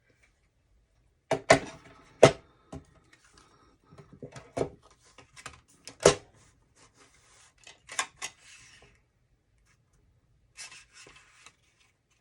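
Cardstock band being cut and handled at a craft desk: a series of sharp, irregular clicks and taps of paper and cutting tool, with light rustling between them.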